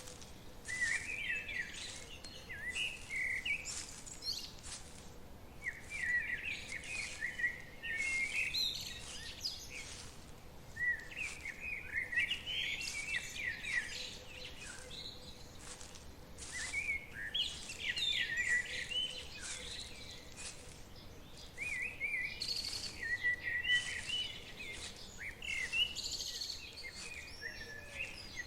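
Forest birdsong: a songbird singing warbling phrases of two to three seconds, repeated about every five seconds, with faint high chirps from other birds between them.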